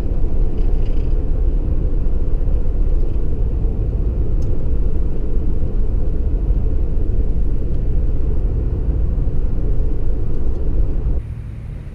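Low, steady rumble of a car on the move, which cuts off abruptly near the end.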